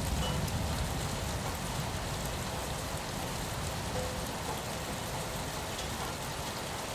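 Steady rain falling on a window pane, an even, dense hiss of drops. A low rumble underneath fades away during the first couple of seconds.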